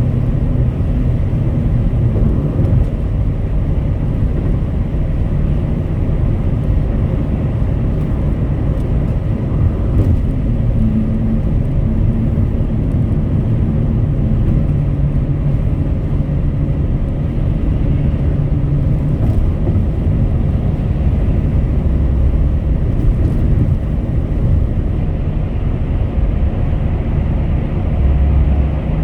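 Car driving at highway speed: a steady low rumble of road and engine noise, with faint engine tones that shift slightly now and then.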